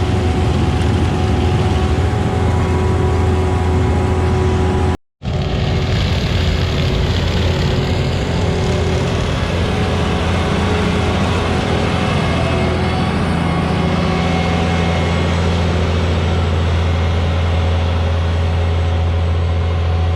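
Large diesel engine of farm harvesting machinery running steadily with a deep drone. The sound breaks off for an instant about five seconds in, then carries on.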